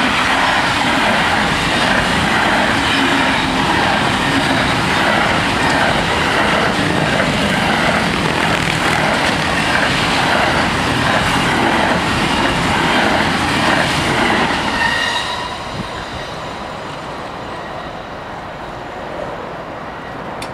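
SNCF intermodal freight train's wagons, loaded with road semi-trailers, rolling past with loud steady wheel-and-rail noise. The noise falls away suddenly about fifteen seconds in as the last wagon clears, leaving a fainter steady noise.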